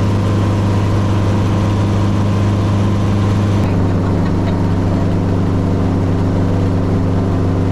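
Helicopter engine and rotor drone, heard steadily and loudly from inside the aircraft. The low hum shifts abruptly a little over three seconds in.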